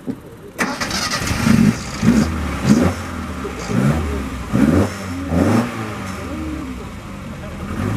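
Classic car engine running, coming in suddenly about half a second in and revved in several short blips, each rising and falling, before settling to a steadier idle.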